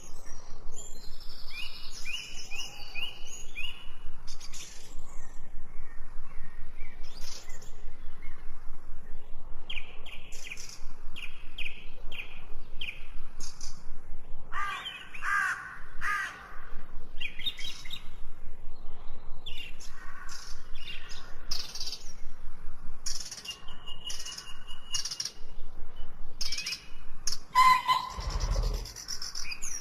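Several birds chirping and singing, short repeated notes and trills one after another with a few lower, harsher calls mixed in. A brief low thump sounds near the end.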